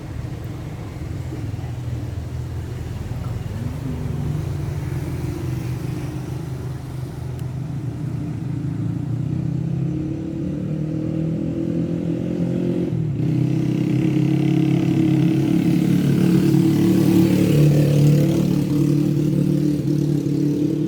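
A motor vehicle engine running steadily, its pitch drifting a little and growing louder in the second half.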